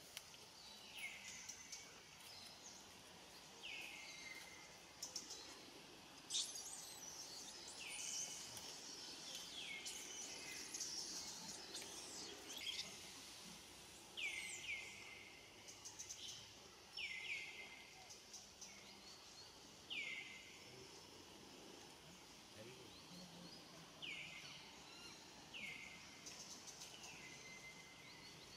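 A bird calling over and over with short, falling whistles, one every one to four seconds, over faint outdoor background noise.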